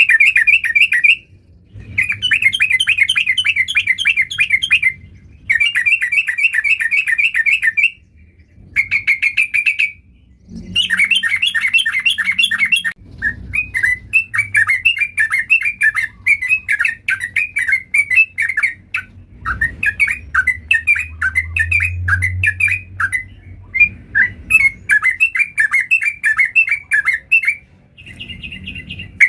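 Yellow-vented bulbul (trucukan) singing loudly in fast, bubbling, chattering phrases. The phrases come in bouts of a few seconds with short pauses between them.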